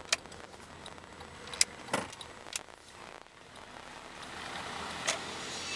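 A car driving slowly, its running noise rising about halfway through, with a few sharp clicks and knocks scattered through it.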